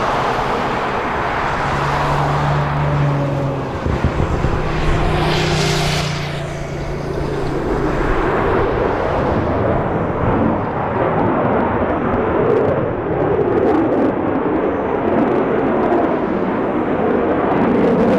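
Twin Pratt & Whitney F119 turbofan engines of an F-22 Raptor on takeoff: loud continuous jet noise that peaks in a brief hiss about six seconds in, then turns to a deeper rumble as the high end fades, with the jet moving away.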